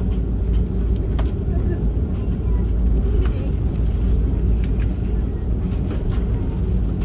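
Steady low rumble inside the cabin of an Airbus A330-300 airliner before takeoff, its Rolls-Royce Trent 700 engines at idle, with a few faint clicks and rattles.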